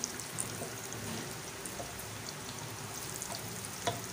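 Breaded potato-and-chicken kababs deep-frying in hot oil in a wok: a steady sizzle with small crackles throughout. There is a light knock near the end.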